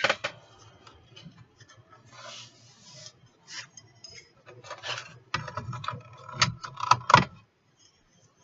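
Ceramic coasters and their packaging being handled: a run of clicks, rustles and light clatters, busiest and loudest from about five to seven seconds in.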